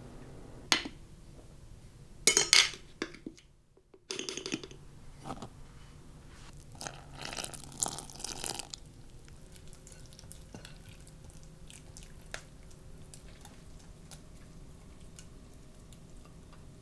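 Kitchen sounds of dishes and utensils: a few sharp clinks and clatters, a stretch of scraping or rustling, then a steady faint hum with light ticks.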